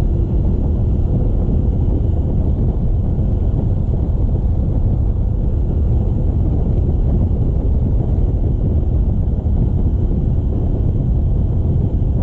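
Motorcycle riding along: the engine running steadily under heavy wind rush on the microphone.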